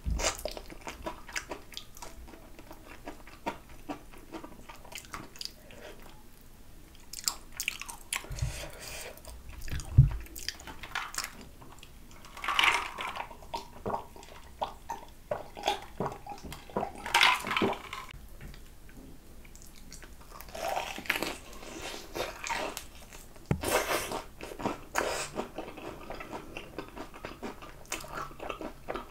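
Close-miked biting and chewing of crispy fried chicken drumsticks: crunching batter and wet mouth sounds. A mouthful of cola is drunk partway through, and there is one sharp low thump about a third of the way in.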